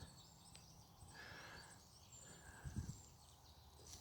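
Near silence: faint outdoor background hum, with one faint low knock about three seconds in.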